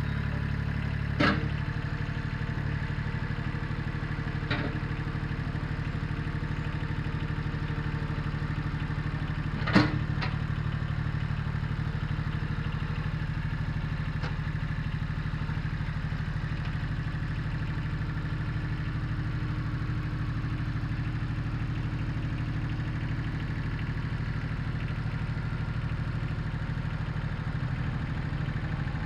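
Satoh Mitsubishi compact tractor engine running steadily, with three sharp clanks over it, about a second in, near five seconds and, loudest, near ten seconds.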